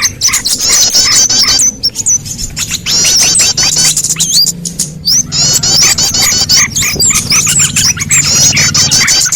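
Bird-lure recording of small songbirds: many overlapping fast, high-pitched chirps and chattering trills repeating rapidly, thinning briefly about two seconds in and again near the middle.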